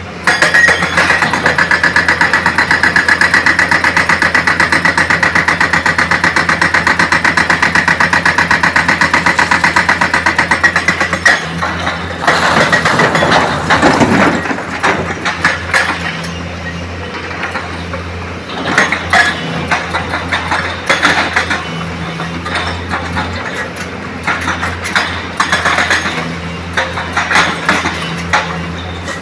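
Heavy diesel machinery running with a steady low engine hum. For the first ten seconds or so a loud, harsh, rapidly pulsing drone sits over it, then gives way to irregular knocks and clatter.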